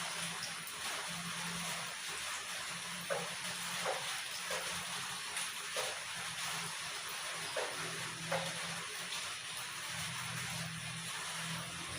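Close-miked eating sounds of someone chewing a rice meal, over a steady hiss, with a few short sharp clicks from the mouth and utensils scattered through.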